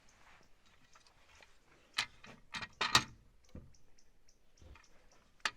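Knocks and clatters of a sawn wooden block being handled and set in place between roof rafters: about half a dozen separate sharp knocks, the loudest cluster about three seconds in.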